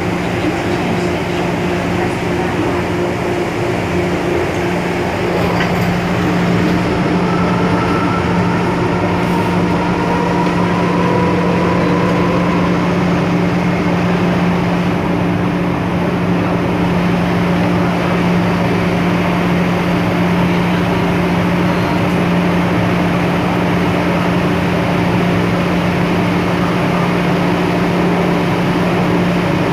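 Interior of an MTR M-Train electric multiple unit running on the Tsuen Wan Line: steady rolling and traction noise under a constant low hum, with a faint rising whine about a third of the way through.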